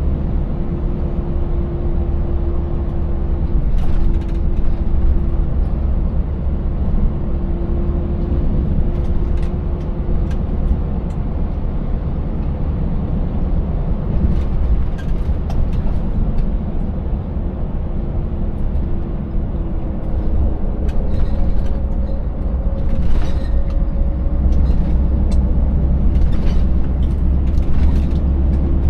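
Scania 590S V8 truck engine running steadily under way with road and tyre noise, plus scattered short clicks and knocks.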